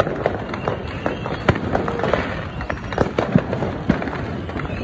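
Fireworks going off: a dense, continuous crackle of many sharp pops and bangs, with the loudest reports about one and a half seconds and three seconds in.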